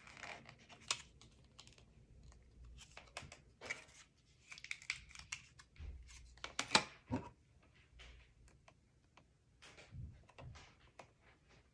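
Small magnets, tape and cardstock being handled by hand: irregular light taps, clicks and paper crinkles, the loudest a sharp click a little past halfway.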